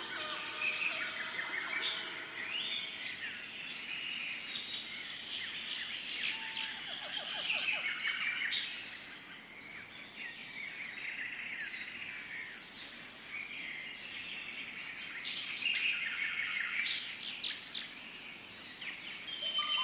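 Several birds chirping and trilling, with many short overlapping calls that come and go in busier spells, over a steady high-pitched tone.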